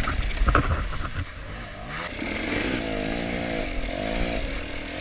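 Dirt bike engine revving up and down in quick, uneven surges as it labours up a slippery, rocky climb, with knocks and clunks of the bike over rocks in the first second or so.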